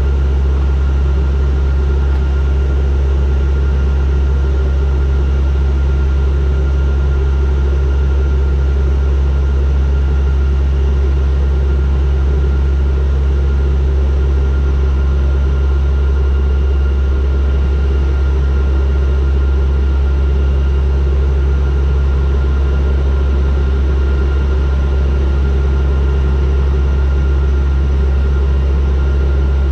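Turboprop airliner's engines and propellers running steadily in cruise or descent: a constant deep drone with a faint steady higher whine above it.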